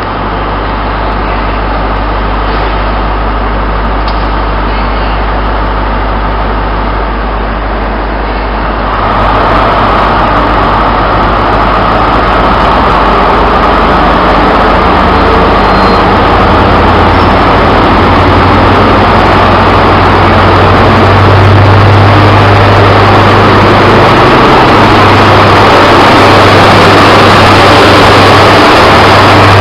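Diesel train engine running with a steady heavy low hum, growing fuller and louder about nine seconds in.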